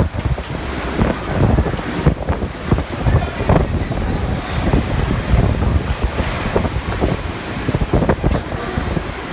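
Typhoon-force wind gusting hard and buffeting the microphone with a loud, rumbling roar that surges and eases irregularly.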